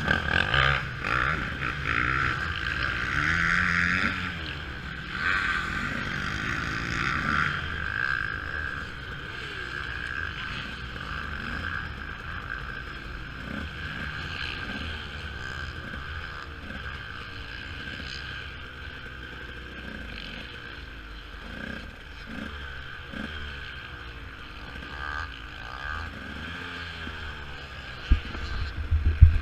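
Motocross bike engine, its revs rising and falling, louder in the first several seconds and then running quieter. Near the end it opens up into a loud, rough burst of revving.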